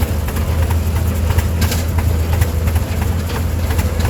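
A tractor engine running steadily at low speed, a constant low hum with irregular sharp ticks over it.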